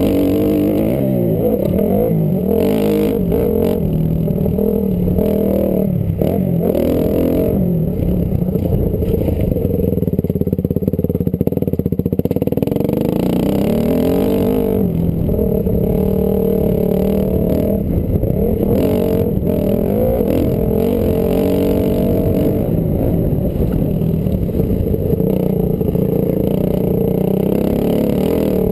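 Honda CRF250R's single-cylinder four-stroke engine revving up and down over and over as the dirt bike is ridden hard, heard on board from a helmet camera.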